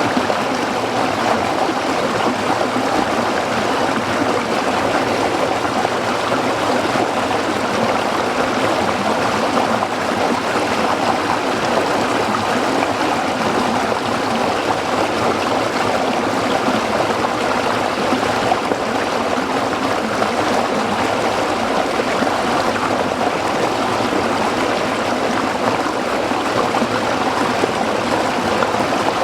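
A small stream or brook flowing steadily over rocks, a continuous babbling rush of water.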